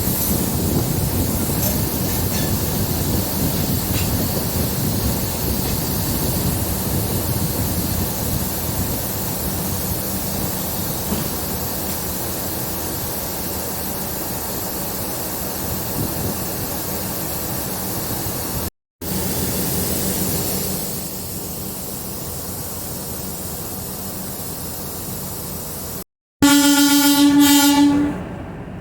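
Steady rumble and hiss of a DEMU passenger train running, heard from on board, broken twice by a moment of silence. Near the end, a loud train horn blows for about a second and a half.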